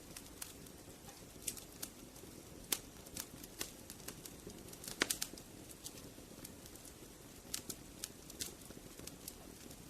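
Wood fire burning, a steady low rumble and hiss with irregular sharp crackles and pops, two of them louder about three and five seconds in.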